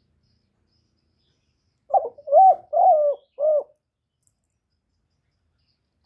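A male spotted dove cooing one short phrase of about four notes, beginning about two seconds in.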